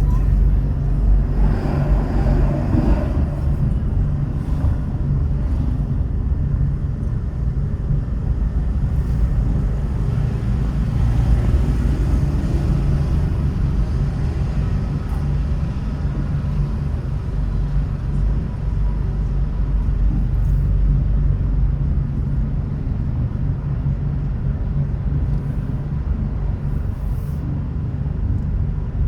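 Steady low rumble of a car driving, road and engine noise, with a brief louder swell about two seconds in.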